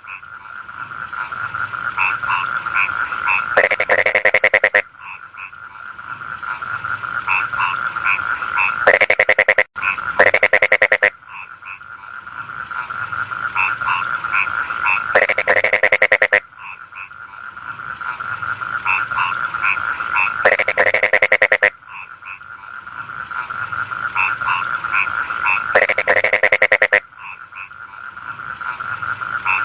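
Rice-field frogs calling in chorus: steady croaking with short pulsed calls, broken about every five seconds by a loud burst of rapid croaks lasting about a second.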